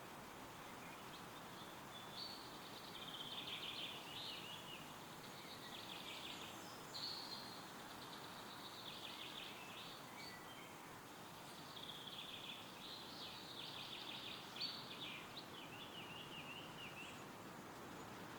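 Songbirds singing in repeated phrases of rapid high notes, over a steady rustle of wind through trees.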